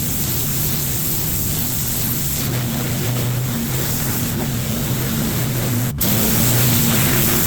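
Pressure washer's engine running steadily, with the hiss of high-pressure water spray on concrete. The sound drops out for an instant about six seconds in and comes back slightly louder.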